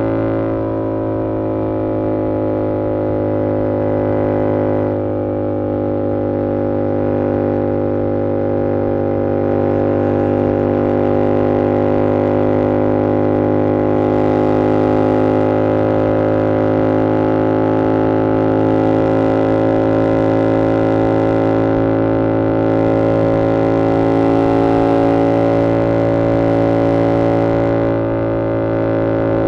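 2022 Yamaha R7's 689cc parallel-twin engine through an SC-Project CR-T exhaust, running at a steady, almost unchanging pitch as the bike holds its speed, with rushing wind noise that rises and falls.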